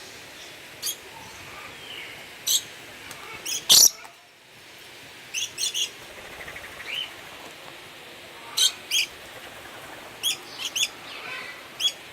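Small birds giving short, sharp, high chirps, one every second or so, with one loud harsh burst about four seconds in.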